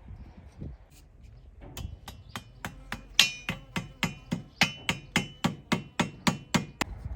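Hammer striking metal in a steady series, about four blows a second, each blow leaving a short ringing tone. The blows begin just under two seconds in.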